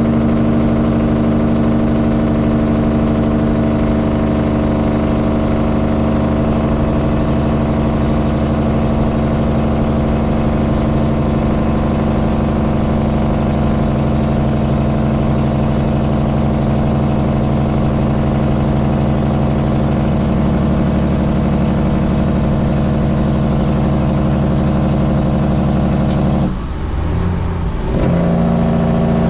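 Detroit Diesel 12.7 six-cylinder diesel of a semi truck running at a steady speed. About 26 seconds in, the sound dips briefly and changes for a second or so, then settles back to the same steady running.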